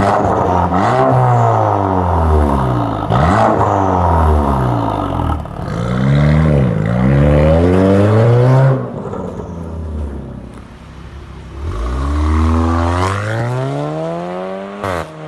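Audi A4 B9 two-litre engine with a tuned exhaust system, revving up and down repeatedly. The sound drops off for a few seconds past the middle, then the revs climb again near the end.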